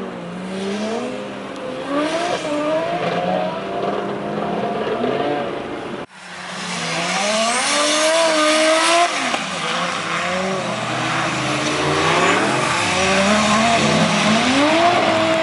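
Toyota GT86 drift car's turbocharged 2JZ straight-six engine revving hard up and down through a drift on a wet track, with tyre noise and spray. The sound drops out briefly about six seconds in, then comes back louder.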